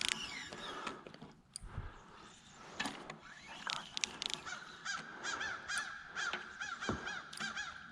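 Crows cawing in a fast series of short, repeated caws, starting about halfway through, with a few scattered sharp clicks.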